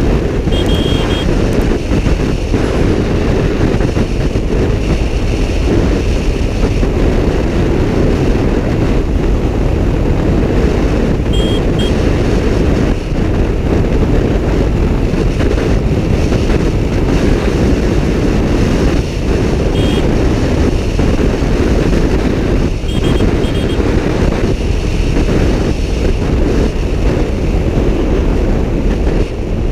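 Suzuki Gixxer SF motorcycle running at highway speed, heard as a steady engine and wind rush on the microphone. A few brief high beeps sound now and then over it.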